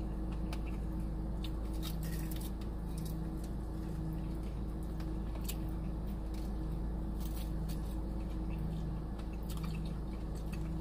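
A person eating on a close microphone: wet chewing and scattered short mouth clicks and smacks, over a steady low hum.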